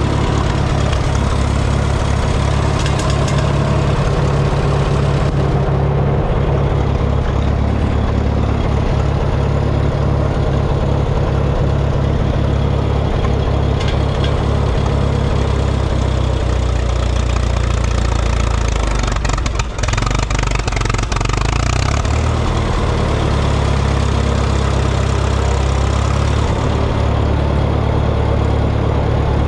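Minneapolis-Moline tractor's gasoline engine running steadily, put in gear. About two-thirds of the way through its note shifts lower, with a brief dip, then it settles back to a steady run.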